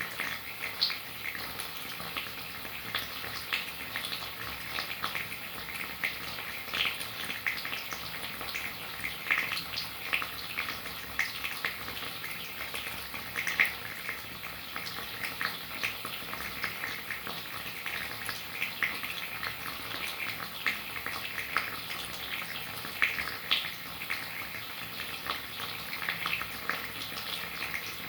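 Steady rain: an even hiss with many small drops ticking irregularly throughout.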